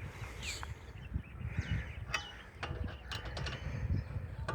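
Birds calling: a scatter of short calls and falling chirps over a low rumble.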